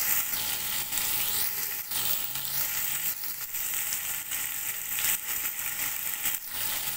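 Sliced onions and tomatoes with ginger-garlic paste frying in hot oil in a pan, sizzling steadily, with a few short knocks or scrapes through it.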